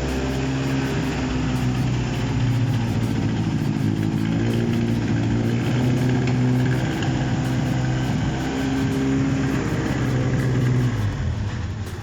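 A Toyota 2AZ 2.4-litre inline-four engine running steadily on a test stand during its first start-up check as a used engine. Near the end it winds down and cuts off.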